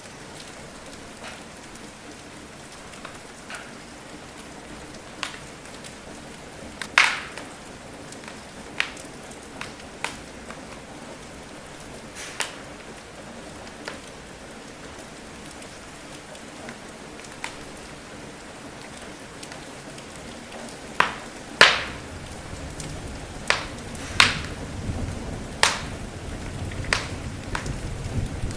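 Steady rain hiss mixed with the irregular sharp pops and crackles of a burning wood fire, a few louder snaps about seven seconds in and again in the last third. A low rumble builds over the final several seconds.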